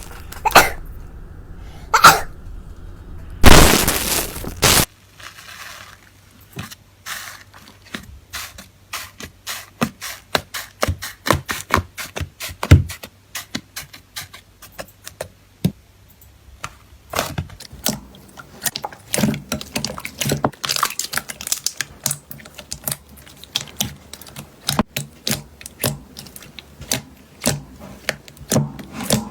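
Slime being handled and squeezed, making a quick, irregular run of small clicks and pops, with a few louder squelches in the first five seconds.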